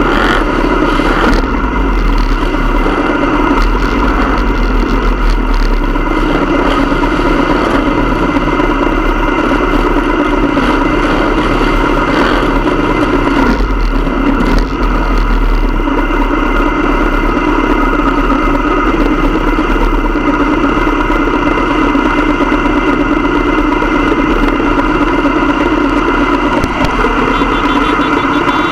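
Motorcycle engines running steadily, holding an even pitch with a constant low rumble.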